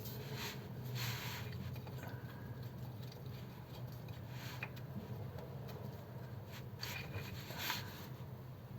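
Hand tools working on the car: a few scattered sharp clicks and scrapes of metal, over a steady low hum.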